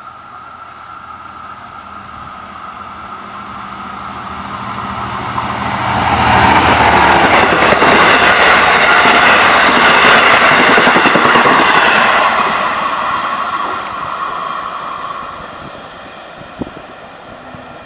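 Long Island Rail Road bilevel coach train approaching and passing close at speed. The rush of wheels on rail builds over several seconds, stays loud for about six seconds as the coaches go by, then fades, with a thin steady whine underneath.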